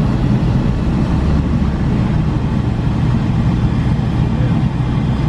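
Car engine and loud exhaust heard from inside the cabin, a steady low drone at low revs as a manual car rolls slowly in second gear.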